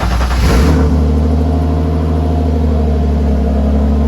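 Turbocharged BMW M50 straight-six just after starting cold: its revs flare briefly in the first half second, then it settles into a steady idle while warming up.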